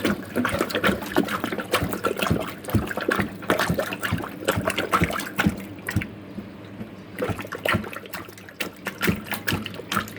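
Water splashing and trickling in a clogged double sink as a plug is worked over the drain to force pressure through the blockage, with many irregular splashes and knocks and a brief lull about six seconds in.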